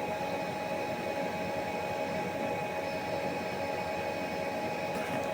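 Steady hum of machine-shop machinery running, a constant noise with several unchanging tones.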